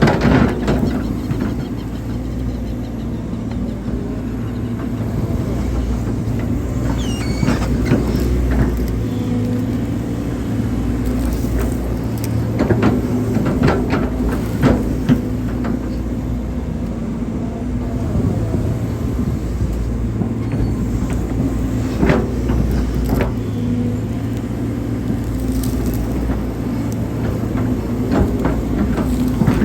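Hydraulic excavator's diesel engine running steadily, with scattered knocks and clanks from the machine as it digs.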